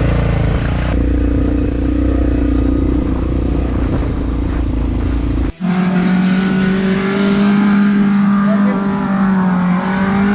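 Off-road 4x4 engine running hard under load, with music underneath. The sound breaks off abruptly about halfway through, then a steady, held high-rev engine note follows.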